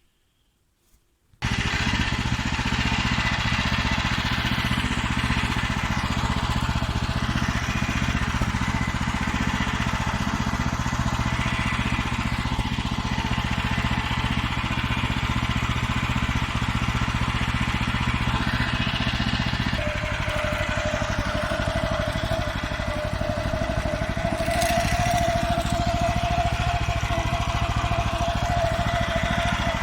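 Farmer 1511 walk-behind tractor's single-cylinder engine running steadily under way, cutting in abruptly about a second and a half in. About two-thirds through the engine note shifts and a steady higher whine joins it.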